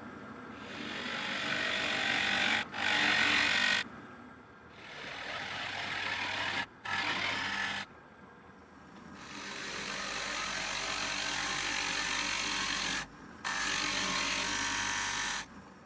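Drill press spinning a router bit into a wooden base, cutting shallow divots for the scoring holes. The cutting noise swells and eases over several passes over a steady motor hum, and breaks off abruptly several times.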